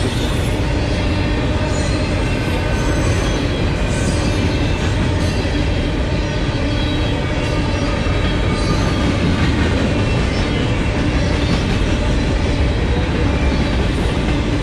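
Norfolk Southern freight train of gondola cars rolling past, a steady rumble of steel wheels on the rails that holds at one level throughout.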